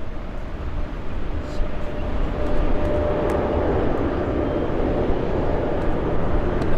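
Jet airliner engines running, a steady rumble with a faint whining tone, growing a little louder about two seconds in.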